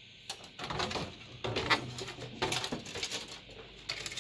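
Handling noise from work inside a computer case: about five short scrapes and rustles as the motherboard and parts are shifted about, with a faint low hum around the middle.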